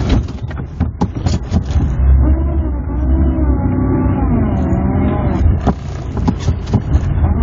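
Moskvitch 412's four-cylinder engine running, heard from inside the cabin, its revs rising and falling unevenly for a few seconds in the middle, with sharp knocks and clatter in the first second and again about six seconds in.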